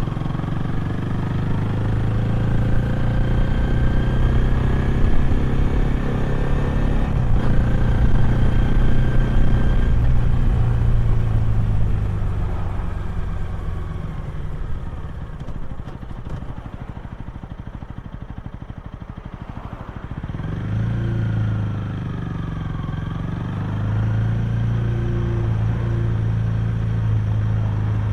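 Honda Rebel 250's single-cylinder engine and exhaust while riding: running steadily under load, then dropping to a quieter, lower note for several seconds around the middle. It then picks up again with rising revs and settles into a steady cruise.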